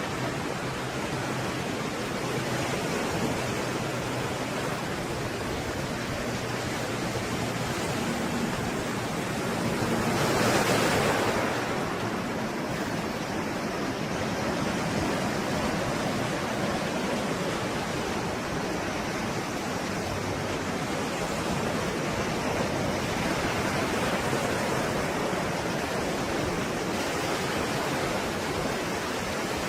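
Stormy sea surf: a steady wash of waves, with one wave breaking louder about ten seconds in and smaller swells later.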